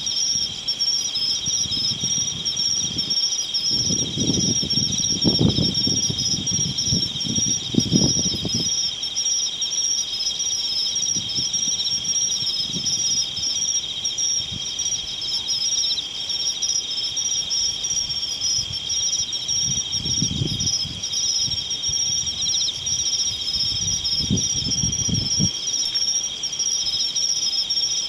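Insects chirping in a steady, high-pitched chorus of two layered trills. Low rumbles break in a few times, around four to nine seconds in and again near the end.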